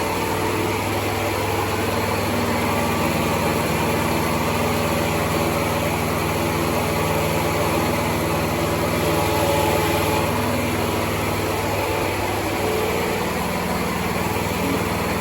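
The new petrol engine of a freshly assembled ПЭ-2 excavator running steadily on its first test run, its note shifting slightly a couple of times.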